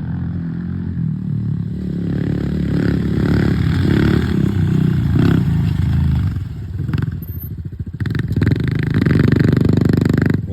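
A pit bike's small single-cylinder engine is running hard under throttle while being ridden. It eases off about seven seconds in, then picks up and revs again.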